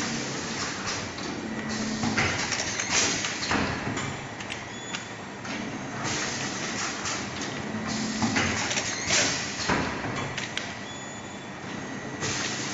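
Automatic aluminium foil packaging machine (coil-fed, with suction forming, filling and sealing) running through its cycle: continuous mechanical clatter with knocks and noisy swells that repeat about every six seconds.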